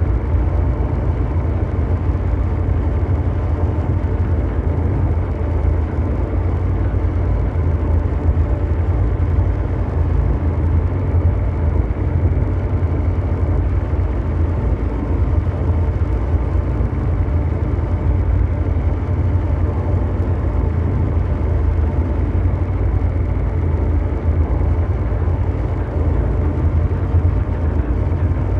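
Continuous ambient mechanical drone: a steady, dense low rumble like brown noise, with faint steady hum tones above it and no change throughout.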